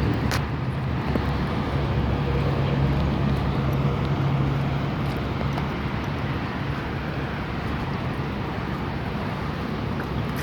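A motor vehicle's engine running with a steady low hum over a wash of noise, the hum fading after about five seconds.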